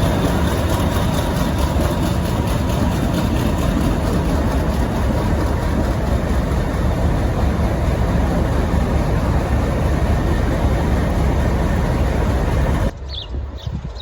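Heritage diesel locomotive running loudly, a steady heavy engine rumble with rail noise. It cuts off abruptly near the end, leaving a quieter background with a few bird chirps.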